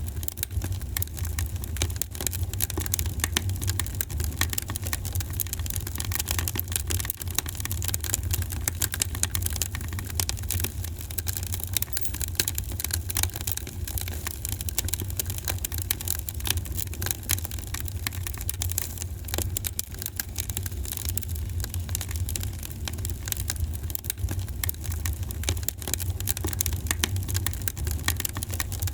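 Wood fire burning in a fireplace: a steady low rumble of flames with dense small crackles and pops throughout.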